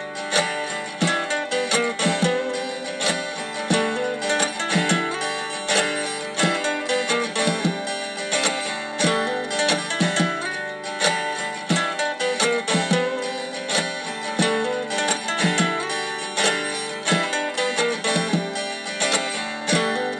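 Background music: acoustic guitar played with plucked and strummed notes at a steady rhythm.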